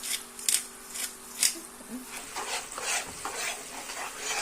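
Pepper grinder twisted in short scratchy strokes, about two a second, cracking black pepper over the pan. From about two seconds in, a utensil stirs and scrapes a sizzling cream-and-garlic sauce in the pan.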